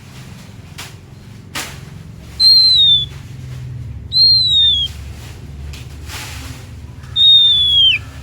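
Oriental magpie-robin (kacer) singing: three long, clear whistled notes a couple of seconds apart, each sliding down in pitch at its end. A low steady hum runs underneath.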